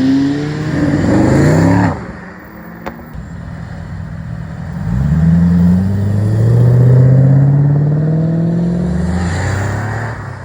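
A car engine accelerating hard, its pitch rising, breaks off abruptly about two seconds in. A few seconds later a car engine accelerates again, runs loud, and fades away near the end.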